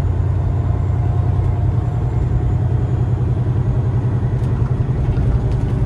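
Steady low drone of a Peterbilt semi truck's engine and road noise heard inside the cab while driving at speed.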